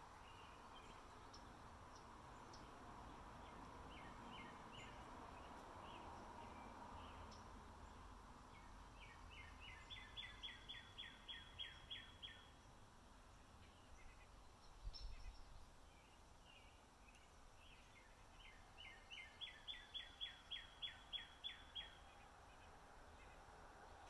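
A bird singing a phrase of rapid repeated high notes, about four a second, twice about ten seconds apart, each led in by a few softer notes, over faint outdoor background noise.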